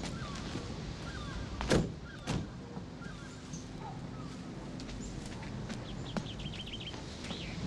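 Two sharp knocks about half a second apart over a steady background hiss, followed by faint bird chirps and a short rapid trill near the end, the sound of early-morning birds.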